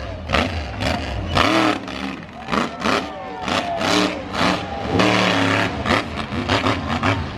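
Monster truck engine revving hard in repeated bursts, its pitch rising and falling with each throttle stab.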